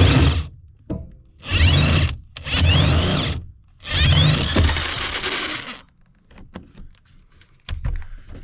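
Impact wrench (rattle gun) run in four bursts, the last and longest nearly two seconds, undoing the upper nut of a Renault Twingo's rear shock absorber, followed by a few light knocks.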